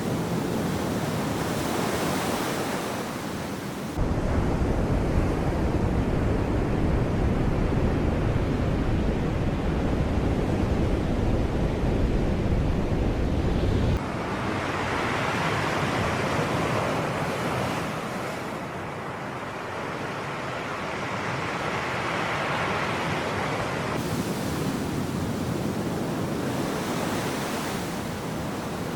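Sea waves breaking and washing on the shore, the surf swelling and easing in repeated surges. A stretch of deep rumble starts suddenly about four seconds in and cuts off just as suddenly some ten seconds later.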